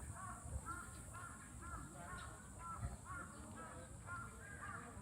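Birds calling: a run of many short chirping calls, overlapping one after another, over a steady high-pitched drone.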